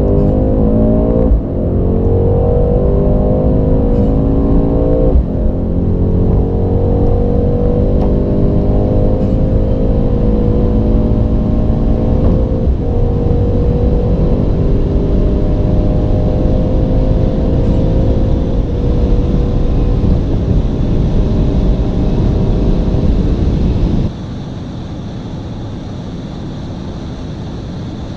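Mercedes-AMG twin-turbo V8 at full-throttle acceleration, its pitch climbing through the gears with quick upshifts about a second in and about five seconds in, then a long, slow rise in a high gear at speed. Near the end the engine sound cuts off abruptly, leaving a steady rush of wind and road noise.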